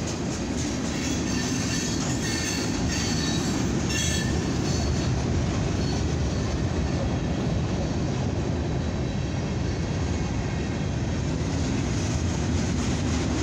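Freight cars of a mixed freight train rolling past at steady speed: a continuous rumble and clatter of wheels on the rails.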